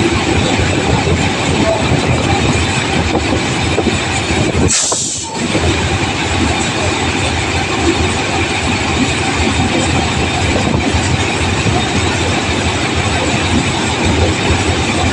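A train running on the tracks through a railway station, a loud steady rumble and rattle of wheels and cars. About five seconds in there is a brief hiss and a short dip before the sound carries on.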